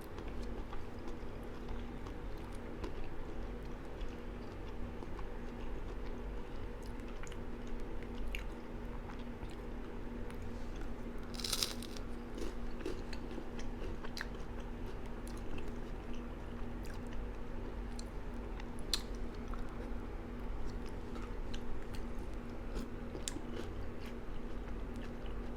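A person eating close to the microphone: chewing and biting food, with scattered small clicks and one louder crunchy bite about halfway through. A steady low hum runs underneath.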